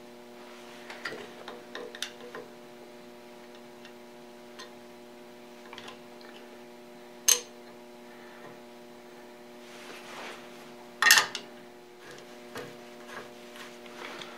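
Scattered small metallic clicks and knocks from hand work on a machine's electrical box, at irregular intervals, with two sharper clacks about seven and eleven seconds in, over a steady low hum.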